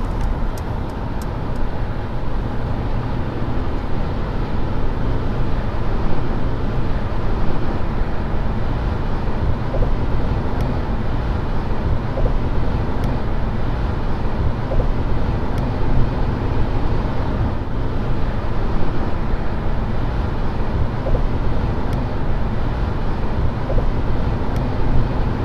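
Steady low road and wind rumble heard inside the cabin of a 2021 Mercedes-Benz S580 cruising at speed.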